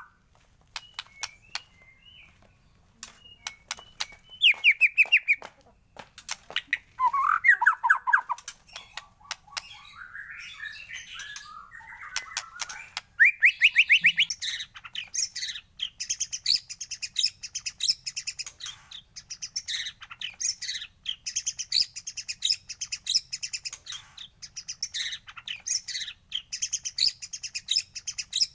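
Songbird singing: sharp clicks and short whistled trills at first, then from about halfway a fast, unbroken high chattering song. It is lure song played to set a white-rumped shama singing.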